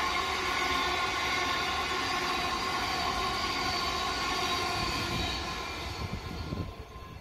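Thameslink Class 700 electric multiple unit passing close by: steady rolling noise of the wheels on the rails, with a steady whine of several tones over it. It fades from about six seconds in as the last carriage goes by, with a few low rumbles near the end.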